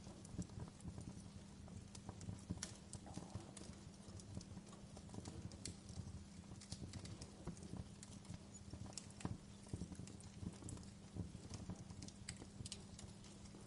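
Wood fire crackling in a fireplace: irregular sharp pops and snaps over a low, steady hum.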